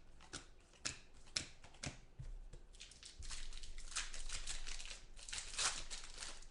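Trading-card pack wrappers crinkling and tearing as packs are opened by hand, with cards being handled in quick short crackles; the handling is busiest from about three seconds in.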